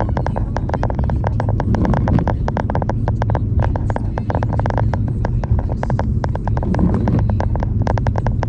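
Car driving in the rain: a steady low road and engine rumble under a dense, irregular patter of sharp clicks from raindrops striking the car.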